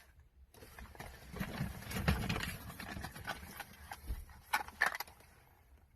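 Rustling and clicking of items and packaging being handled and unwrapped, with a run of irregular sharp clicks and knocks.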